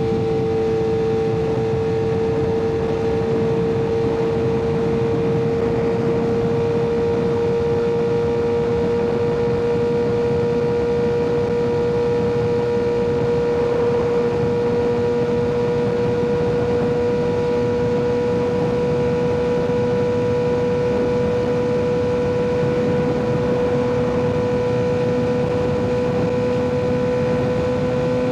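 Kawasaki ZX-6R 636's inline-four engine through an aftermarket M4 exhaust, holding a steady cruising note that climbs slowly in pitch as the bike gathers speed, over a steady rush of wind and road noise.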